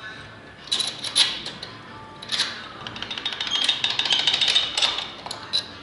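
Hand tools working on a bare engine block's crankshaft bearings: sharp metal clinks, then a ratchet wrench clicking fast and evenly for about two seconds as a main bearing cap bolt is turned. Faint background music is also present.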